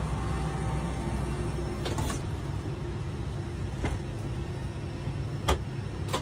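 A steady low hum, with four sharp clicks or knocks about two, four, five and a half and six seconds in.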